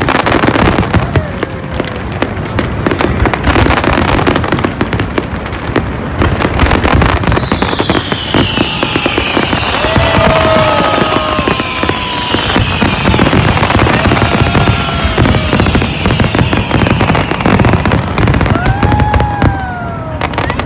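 Fireworks going off continuously: dense crackling and bangs, with a run of high falling whistles through the middle.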